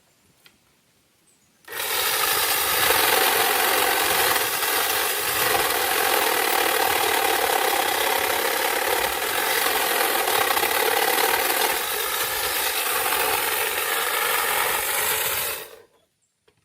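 A small power saw cutting through a tree limb with a steady motor whine. It starts abruptly about two seconds in, runs for about fourteen seconds, and cuts off suddenly near the end.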